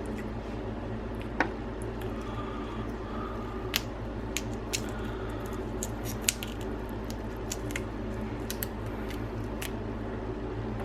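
Boiled crab being picked apart by hand: scattered sharp cracks and snaps of shell, with wet squishing of the meat.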